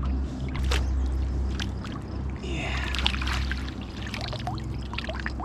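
Water splashing as a hooked catfish thrashes at the surface beside a canoe, loudest about two and a half to three and a half seconds in, with scattered sharp clicks and knocks and a low steady hum underneath.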